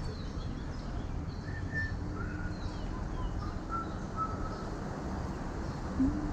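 Birds chirping in short, scattered calls over a steady background rumble, with a low cooing starting right at the end.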